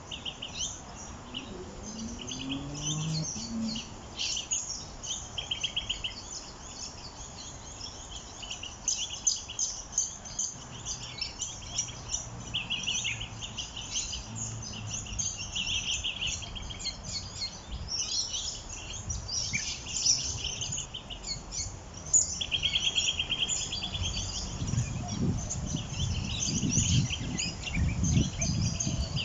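Several small birds chirping and singing together, with quick buzzy trills recurring among the scattered chirps. A low rumble comes in under the birdsong in the last few seconds.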